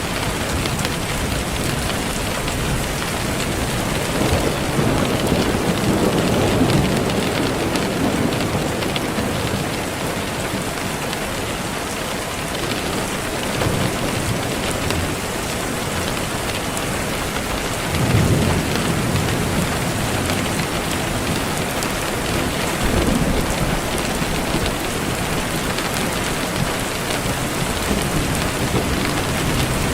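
Steady heavy rain hissing, with low rumbles of thunder swelling up several times, the strongest about eighteen seconds in.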